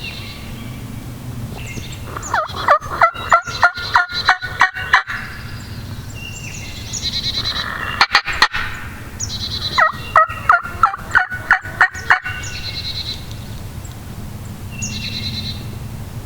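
A wild turkey gobbler gobbling loudly twice, each gobble a rapid rattling run of notes lasting a few seconds. Small songbirds chirp faintly in between.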